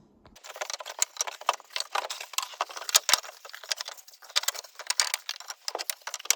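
Loose metal roofing screws rattling and clinking together as they are handled, in a dense, irregular patter that goes on for several seconds.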